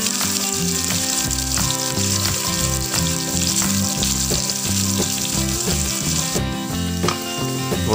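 Chopped ginger, garlic and green chillies sizzling in hot oil in a non-stick kadai, stirred with a wooden spatula. The sizzle drops away sharply about six seconds in.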